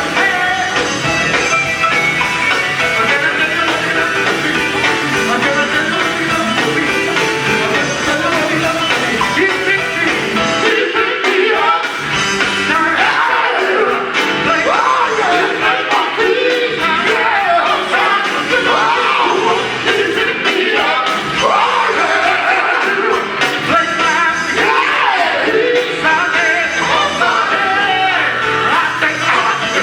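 Gospel group singing live with a full band, voices over a steady driving accompaniment; the bass drops out briefly a little before the halfway point and again about two-thirds of the way through.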